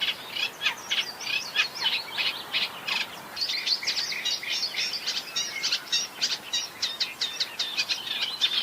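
Great reed warbler singing: a continuous, fast run of short repeated notes that grows denser about three seconds in.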